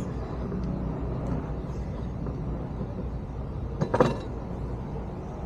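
A couple of sharp metallic clinks about four seconds in, typical of lug nuts or a wheel being handled against the hub, over a steady low hum.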